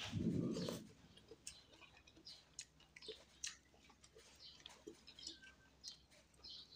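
A person chewing a mouthful of rice and fish eaten by hand, with faint scattered mouth clicks and smacks. A short, louder muffled mouth sound comes in the first second as the food goes in.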